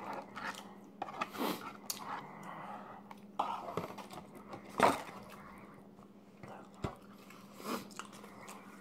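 A person chewing food close to the microphone, with scattered soft mouth sounds and sharp clicks, the loudest about five seconds in. A faint steady hum runs underneath.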